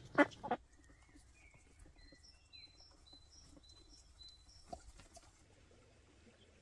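Three sharp knocks in the first half second, then small birds chirping in a quick series of short high notes over a quiet outdoor background, with one faint click near the end.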